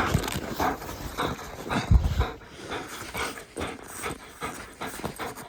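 German Shepherd panting hard after fetching in snow, with a run of short crunching strokes and a couple of low thumps, the loudest about two seconds in.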